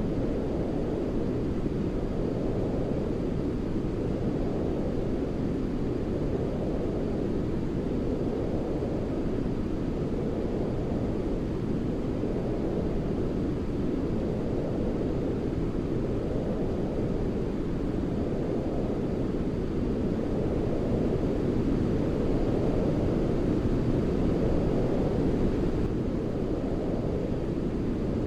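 Continuous deep, rumbling noise like a steady low hiss, of the kind used as baby sleep noise, weighted toward the low end. It swells gently every few seconds.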